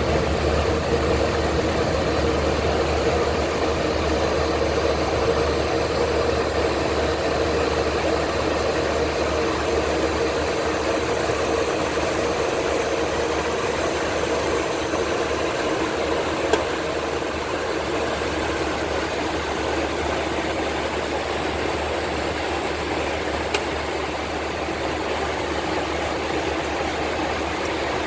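Steady in-flight noise inside an airliner: a continuous rush of airflow and engine drone with a steady hum, easing slightly a little past halfway. A single sharp click comes about halfway through.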